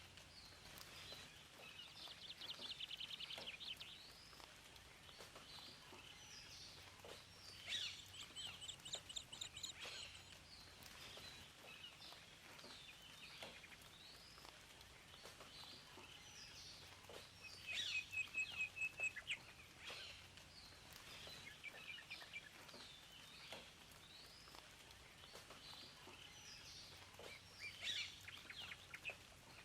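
Several songbirds chirping and singing, with quick trills that come and go every several seconds, over a faint steady hiss.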